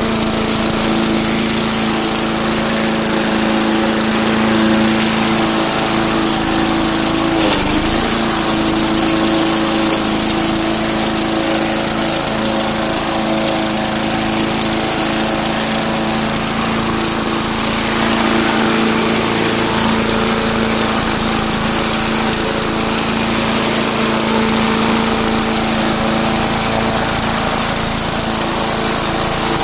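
2004 Murray push mower's 4.5 hp Briggs & Stratton engine running steadily on a test run after a cold start, with a brief dip in pitch about eight seconds in.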